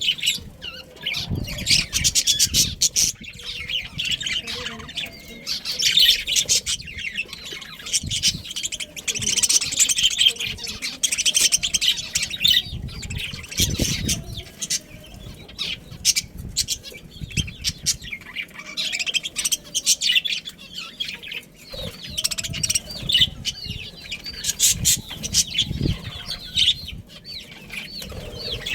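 A flock of budgerigars chattering and chirping continuously in dense, overlapping warbles, mixed with frequent sharp clicks and wing flutters.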